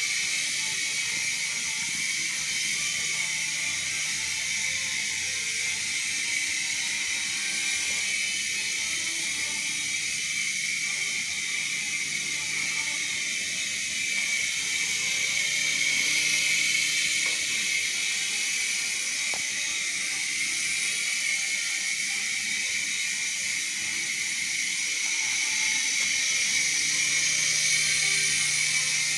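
Small indoor RC helicopter's electric motors and rotor blades running in flight: a steady high whine with a hiss, swelling slightly twice as the throttle changes.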